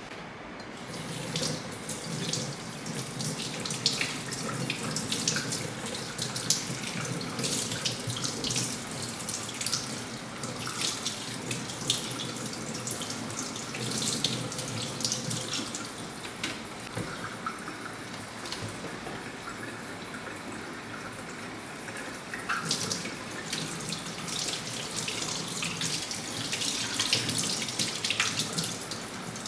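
Tap water running into a sink with irregular splashing.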